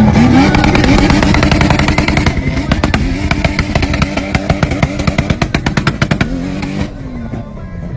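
Tuned car engine revving, then held at high revs on a two-step launch limiter, with rapid popping and banging from the exhaust as the limiter cuts in; the revs drop near the end.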